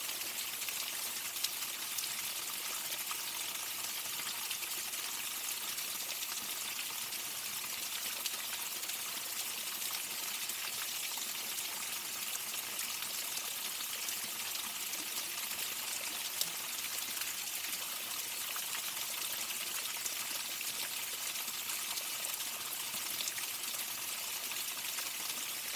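Waterfall: falling water rushing and splashing steadily, a hissing sound heaviest in the high range.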